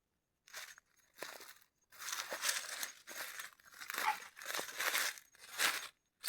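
Irregular crinkling and rustling, a series of short noisy bursts starting about half a second in, like something dry being handled and crumpled.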